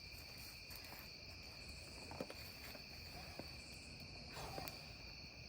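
Steady high trilling of crickets at night, with a few faint clicks.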